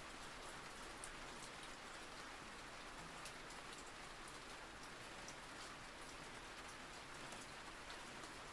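Steady, soft rain falling: an even hiss with scattered faint drop ticks.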